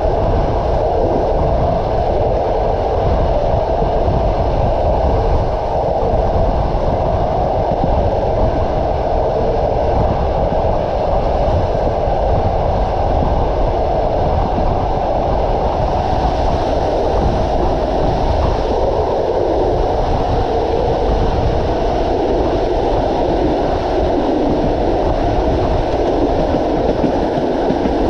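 Train wheels running on the rails: a steady rumble and clatter of a moving train, heard on board.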